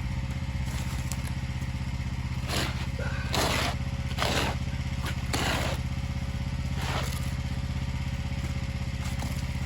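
A petrol engine drones steadily throughout, running a pressure washer. Over it come about five short, rough scraping noises from a shovel scooping wet moss-and-grime slop off the paving.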